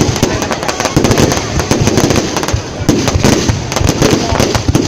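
Fireworks display: a continuous, rapid volley of bangs and crackling shell bursts.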